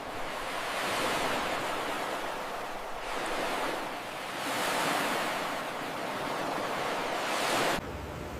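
Ocean surf: waves breaking and washing in, swelling and easing about every two seconds, with an abrupt cut near the end.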